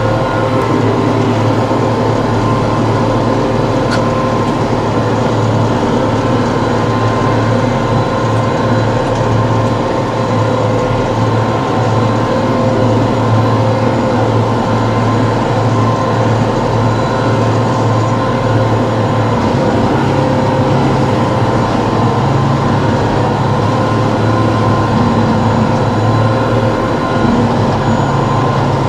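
TYM T654 tractor's diesel engine running steadily under work, a loud continuous drone with a few held tones. About two-thirds of the way through, the low note shifts slightly higher.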